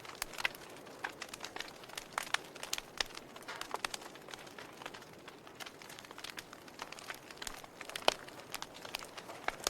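Log fire crackling: irregular sharp pops and snaps over a soft steady hiss, with one louder pop about eight seconds in.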